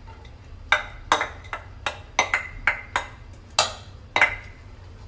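A kitchen utensil knocking and scraping against a frying pan as chopped onions are tipped into the oil: about ten sharp, irregular knocks.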